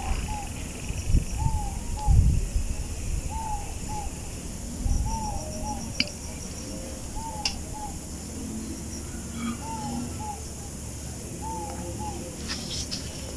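A bird calling over and over in short arched notes, mostly in pairs, about one pair a second. Low rumbling thumps come in the first couple of seconds, and a few sharp clicks come later.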